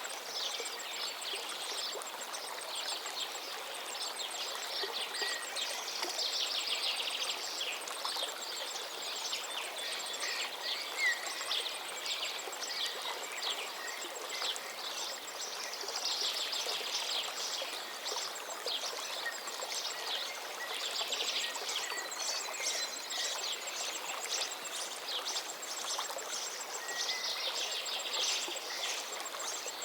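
A river running steadily, with several birds chirping and trilling over it throughout.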